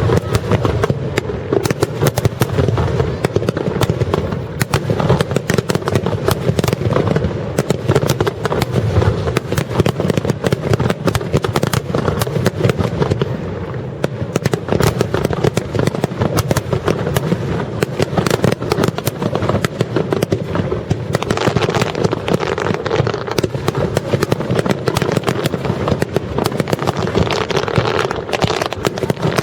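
Large aerial fireworks in a rapid barrage: shell bursts and crackle packed many to the second, with no let-up.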